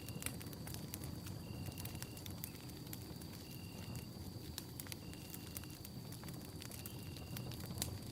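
Wood campfire burning, a steady low rumble with frequent sharp crackles and pops. A faint steady high tone runs behind it, and a short high note repeats about every one and a half seconds.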